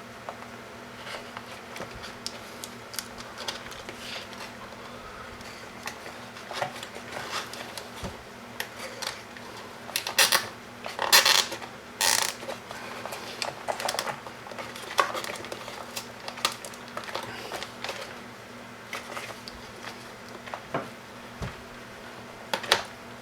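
Hands working on the robot's wiring with zip ties and tape: scattered small plastic clicks, rattles and rustles, with a cluster of louder ones about ten to twelve seconds in, over a steady low hum.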